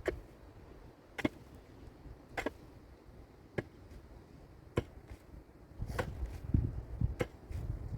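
Sharp strikes repeated at a steady pace, about one every second and a bit, like a tool chopping or hacking. A low rumbling noise builds up under the strikes near the end.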